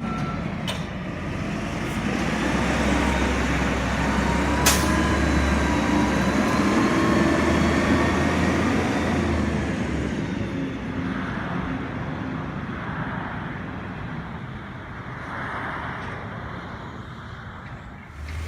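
Garbage truck engine running, with a faint wavering whine above it and a sharp click about five seconds in. It fades and grows duller over the second half.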